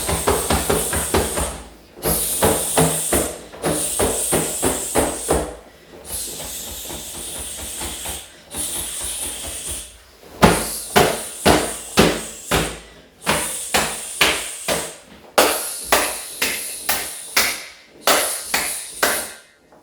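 Rapid slaps and thumps of hands and fists striking the body in karate self-conditioning, with hard breaths out. Quick volleys of several hits a second, thinning to about two harder strikes a second from about halfway.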